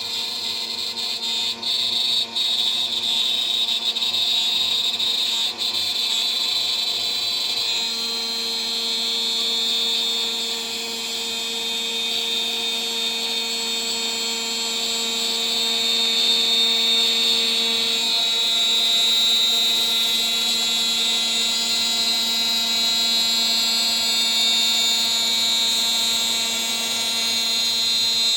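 CNC router spindle running at about 14,000 RPM while a 3 mm three-flute end mill cuts, a steady high whine over a lower hum. A few sharp ticks come in the first six seconds, and the tone shifts about eight seconds in and again about eighteen seconds in.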